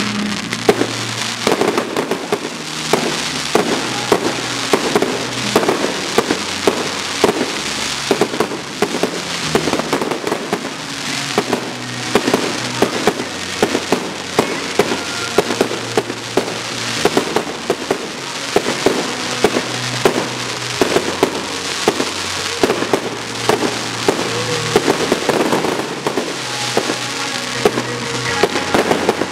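Fireworks display: shells and comets launching and bursting in quick succession, a dense run of sharp bangs, with music playing underneath.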